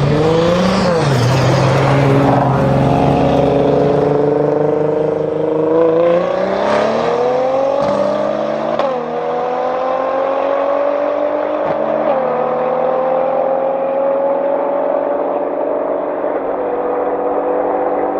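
Straight-piped Mercedes-AMG C63 S Coupe's twin-turbo V8 accelerating hard, its pitch climbing through the gears. The pitch drops sharply at upshifts about a second in, near nine seconds and near twelve seconds, then holds nearly steady.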